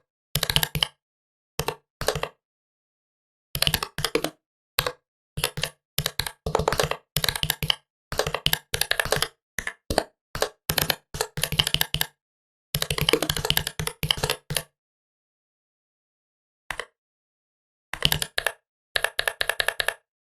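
Typing on a laptop keyboard: runs of quick key clicks, broken by pauses of dead silence, the longest one near the middle of the stretch, before a last fast burst near the end.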